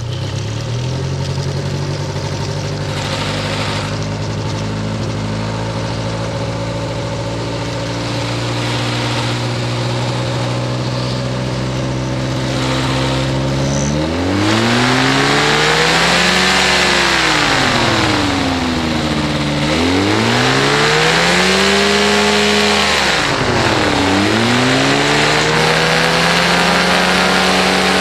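Powered parachute's propeller engine starting, then idling steadily for about fourteen seconds. It is then throttled up and back down several times, the pitch rising and falling with each rev.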